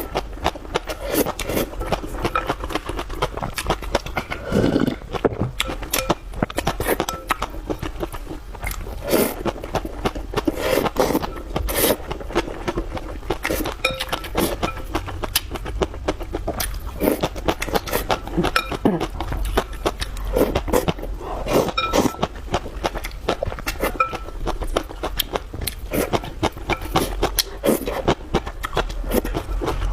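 Close-up eating sounds: a steady run of wet mouth clicks, chewing and slurps, with short pitched slurping blips here and there.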